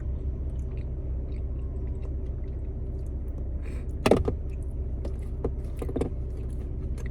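A person chewing and biting into half-frozen cheesecake, with soft mouth sounds and one louder bite or smack about four seconds in, over a steady low hum.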